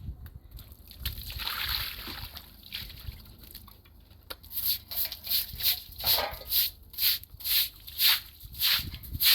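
Water sloshing and splashing. From about halfway in it settles into a steady rhythm of splashing strokes, between two and three a second.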